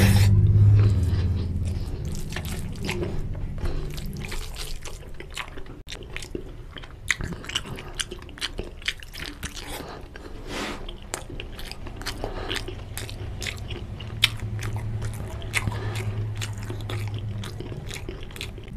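Close-up wet chewing of a mouthful of rice and curry, a quick run of sticky mouth clicks and smacks.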